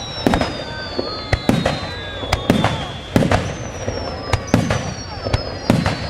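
Fireworks going off in quick succession, about two sharp bangs a second, with high whistles that slowly drop in pitch.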